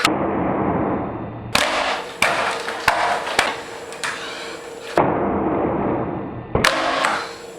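Skateboard wheels rolling on pavement and the board clacking and slapping down in several sharp knocks, as tricks are popped and landed.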